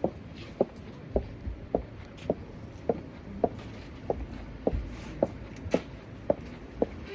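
Heeled boots clicking in steady walking footsteps, a little under two sharp heel strikes a second, about thirteen in all.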